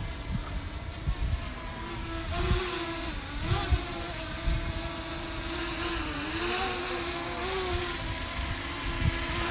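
DJI Mini 2 drone's propellers whining, the pitch wavering up and down as the motors work against strong wind. The whine grows louder about two seconds in. Gusts of wind buffet the microphone with low rumbles.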